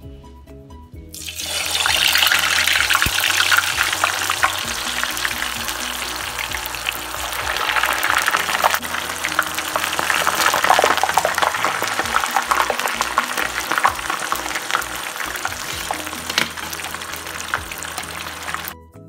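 Potato strips deep-frying in hot vegetable oil in a saucepan for their first fry: a loud hissing sizzle full of crackles that starts about a second in, as the fries go in, and cuts off just before the end. Background music plays underneath.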